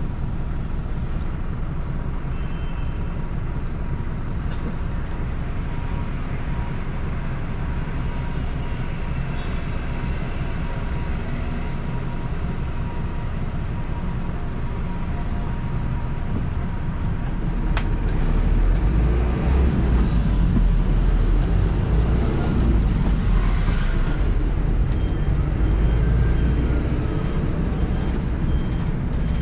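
City bus running on the road, its engine and drivetrain rumbling steadily, then growing louder and heavier about two-thirds of the way through as the bus pulls away or speeds up. A sharp click comes just after that, and a faint repeated beep sounds near the end.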